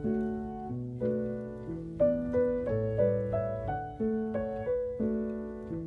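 Background music: a calm solo piano playing a gentle figure of single notes over held bass notes.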